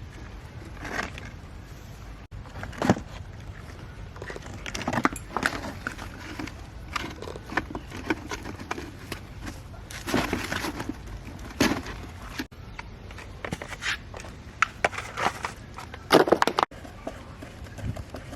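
Irregular clicks, scrapes and knocks of hand work on parts, with a sharp knock about three seconds in and a cluster of louder clatters near the end.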